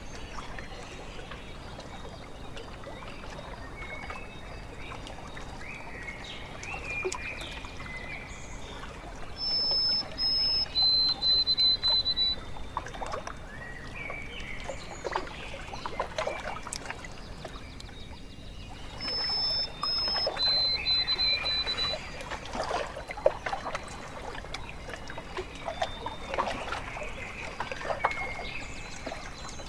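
Small waves lapping and trickling at a lake shore, with birds calling. A clear, high whistled bird phrase of steady notes stepping down in pitch comes twice, about ten seconds apart.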